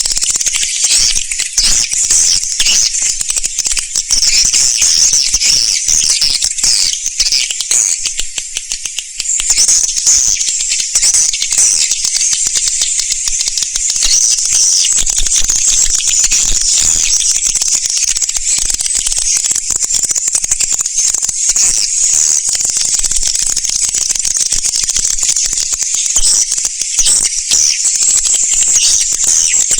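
A dense flock chorus of swiftlets, high-pitched twittering chirps mixed with rapid clicking. It is a continuous recorded swiftlet call of the kind played to draw swiftlets into a nesting house.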